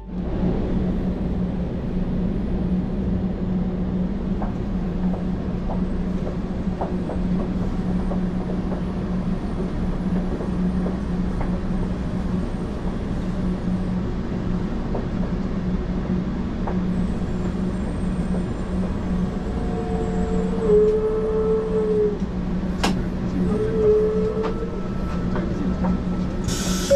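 Steady low rumble and hum of a Sakura shinkansen, heard from inside the car by the door. A few short whining tones come in near the end as the train draws alongside the platform.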